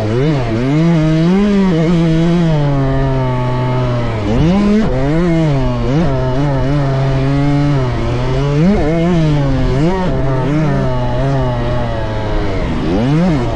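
Dirt bike engine on a motocross track, revving up and backing off again and again, its pitch rising and falling every second or two as it accelerates and eases off.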